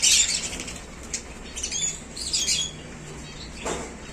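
Small birds chirping and flapping their wings: a burst of rapid flapping and chirps right at the start, more chirping a second and a half in, and a short knock near the end.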